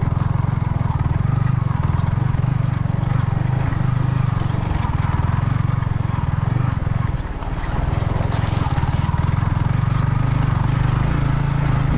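Yamaha MT-15's single-cylinder engine running at low speed in a steady, even beat while the motorcycle rides over a rough, rocky dirt road; the throttle eases briefly about seven seconds in, then picks up again.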